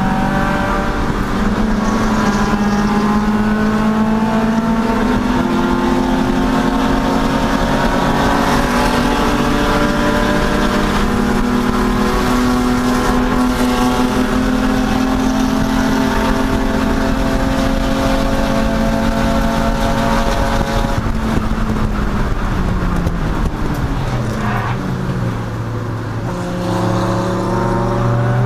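Chump Car race car's engine running hard at high revs, its pitch holding and edging upward, then falling away about three-quarters of the way through as the car slows, and climbing again near the end as it accelerates, over road and wind noise.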